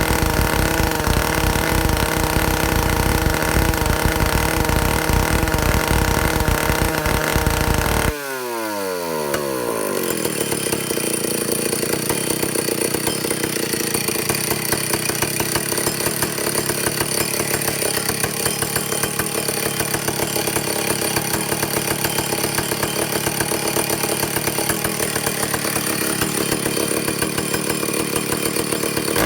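Vintage Stihl chainsaw's two-stroke engine running at high revs during a carburetor high-speed needle test. About eight seconds in, the throttle is let off and the revs fall away quickly, settling into a steady idle.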